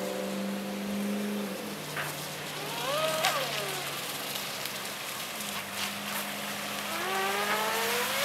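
Brushless electric motor of an NQD 757 Mosquito Craft RC speedboat whining. Its pitch rises and falls about three seconds in, then climbs again near the end as throttle is applied. A steady hiss of wind and water runs underneath.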